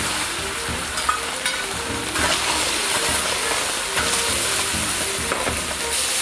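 Sliced beef liver sizzling in hot oil in a large wok, stirred with a metal spatula that clicks and scrapes against the pan. The sizzle grows louder about two seconds in.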